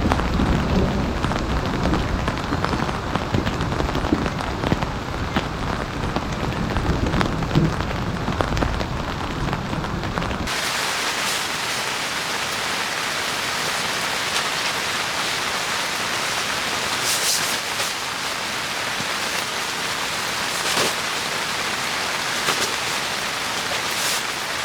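Heavy rain falling, with a deep rumble under the downpour for the first ten seconds or so. It then switches abruptly to a steady, brighter hiss of rain.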